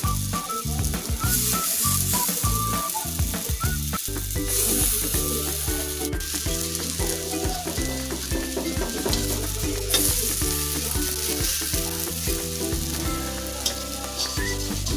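Prawn-head fritters (chingri bora) shallow-frying in hot oil in a kadai: a steady sizzle that swells several times, with a metal spatula scraping and turning them.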